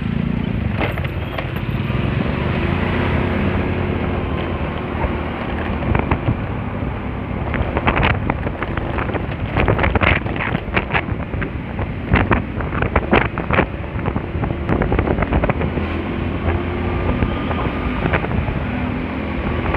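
Honda Spacy scooter ridden on the road: its small engine runs steadily under wind buffeting the microphone. A cluster of sharp knocks and rattles comes in the middle.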